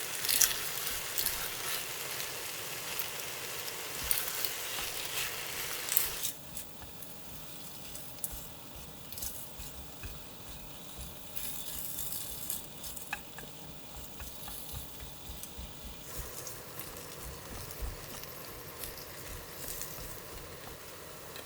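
Food sizzling in a frying pan, with scattered clicks of utensils. About six seconds in, the sizzling cuts off suddenly, leaving a quieter low hum with occasional small ticks.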